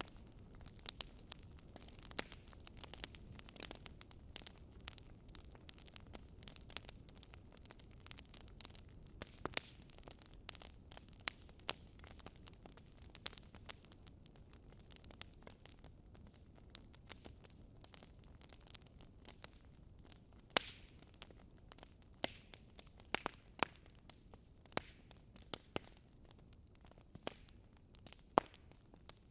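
Wood fire crackling in a fireplace: irregular sharp pops and snaps over a soft steady hiss, with louder pops coming more often in the last third.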